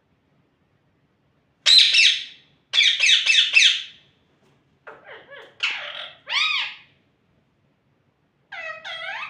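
Pet parrot calling: after a short silence, a loud harsh squawk, then a quick run of three or four squawks, followed by softer calls, arching whistle-like notes and a last series of pitched calls near the end.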